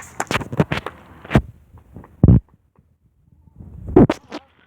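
A series of thumps and knocks, several close together in the first second, then heavy dull thuds about two seconds and four seconds in.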